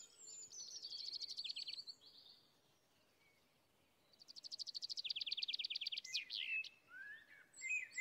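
A songbird singing: two rapid trills of repeated high notes, each lasting about two seconds, with a few short chirps near the end.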